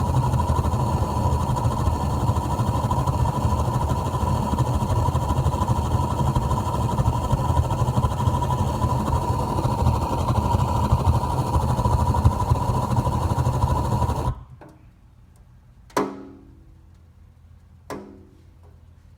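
Kenmore gas water heater: a steady low rumble with a faint constant whine cuts off suddenly about 14 seconds in. Two sharp metallic knocks with a short ringing tail follow, about two seconds apart.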